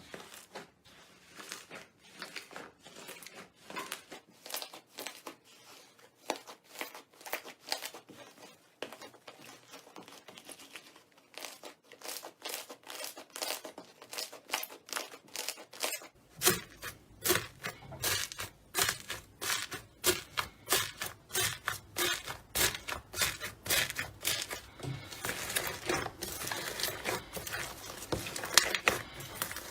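Slime being squeezed and pressed by hand, making a rapid series of small crackles and pops. About halfway through the crackling turns louder and denser.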